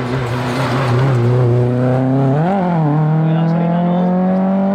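Hillclimb racing car's engine running hard under load. The revs flare briefly about two and a half seconds in, then run higher and climb steadily as it accelerates.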